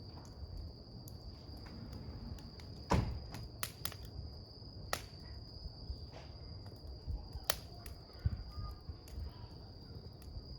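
Wood campfire burning with a low rumble and a handful of sharp crackling pops, the loudest about three seconds in. A steady high insect trill, likely crickets, runs underneath.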